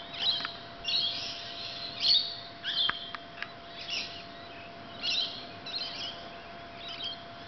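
Lorikeets screeching and chirping in a series of short harsh calls, about one every second, with a faint steady hum underneath.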